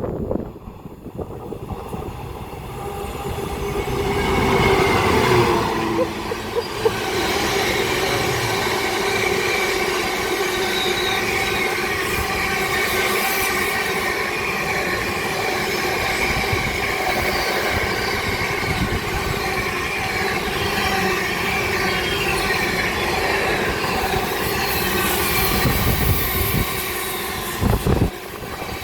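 GBRF Class 66 diesel locomotive passing at full power with its cooling fans running flat out, hauling an intermodal freight train. The sound builds over the first few seconds, is loudest as the locomotive goes by about five seconds in, then the long train of container wagons rolls past steadily.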